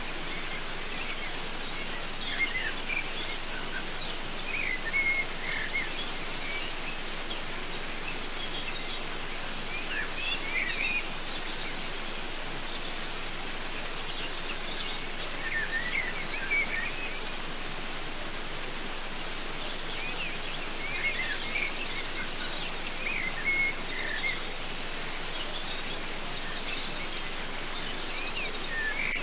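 Waterfall rushing steadily, with birds chirping in short phrases every few seconds over it.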